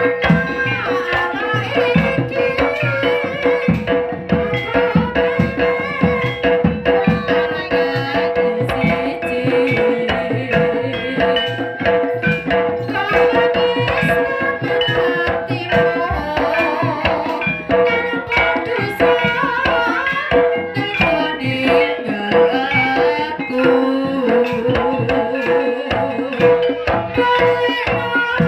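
Live jaranan music from a Javanese gamelan-style ensemble: fast hand-drumming on kendang with pitched instruments over a steadily held note.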